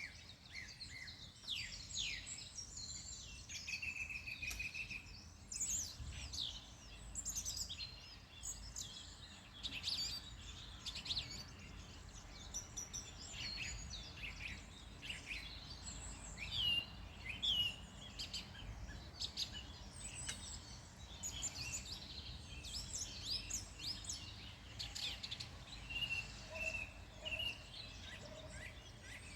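Several wild songbirds singing and calling at once, with many quick high chirps, short trills and whistled notes, over a low steady rumble of background noise.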